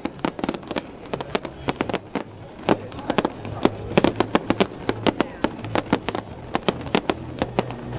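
Fireworks bursting and crackling in rapid succession, many sharp bangs a second, with music playing underneath.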